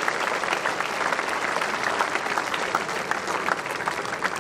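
A large audience applauding: many people clapping steadily together.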